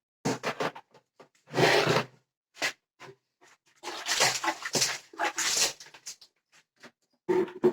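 Cage parts being scrubbed by hand with soap: irregular bursts of rubbing and scraping, with a few sharp knocks of hard plastic or metal.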